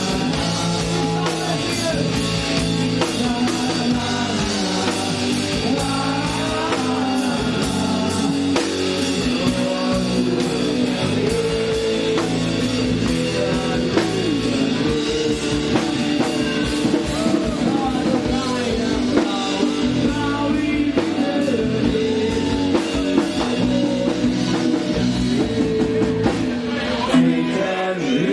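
Live rock band playing: drum kit and guitar.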